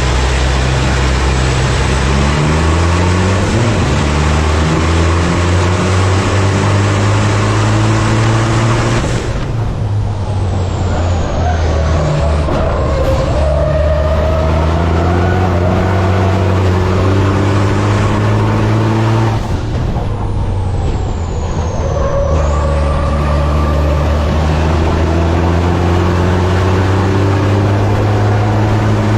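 Racing truck's diesel engine under hard acceleration, its pitch climbing again and again through the gears. Twice, about nine and nineteen seconds in, the engine note drops away with a high whistle falling in pitch, then builds up again.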